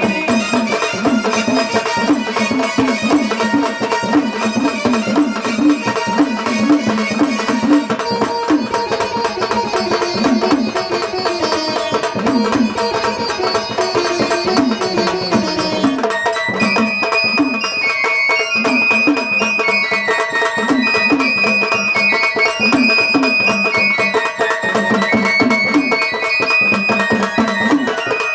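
Gondhal devotional folk music without singing: a fast, busy hand-drum rhythm under sustained melodic tones. A high-pitched melody line comes in about halfway through.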